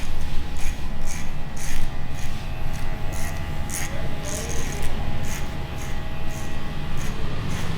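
Barber's scissors snipping hair, short crisp cuts about twice a second over a steady low background hum.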